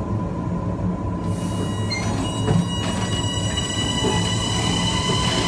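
Kawasaki M9 EMU's Mitsubishi (MELCO) IGBT-VVVF inverter and AC traction motors under a steady low rumble. About a second in, the inverter's hissy, white-noise-like switching sound comes in, and from about two seconds in it is joined by several steady high-pitched whine tones.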